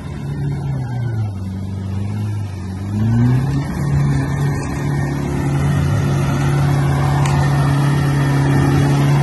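Nissan GU Patrol's engine working hard under load as the 4WD drives through a deep mud bog hole. The engine note dips briefly, then rises about three seconds in and holds high and steady.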